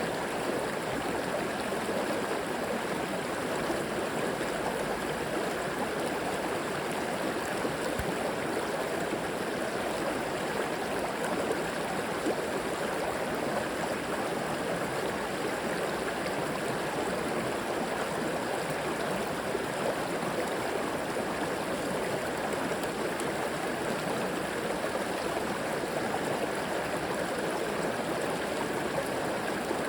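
River water flowing steadily over stones, a continuous rushing and gurgling.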